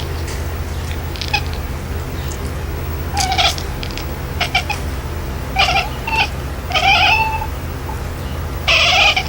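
Domestic cat yowling and meowing in a series of short calls, more frequent in the second half, the loudest near the end, over a steady low hum.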